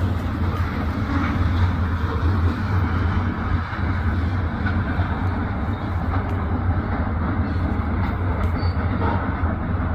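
Norfolk Southern freight train rolling past, a steady rumble of its wheels on the rails.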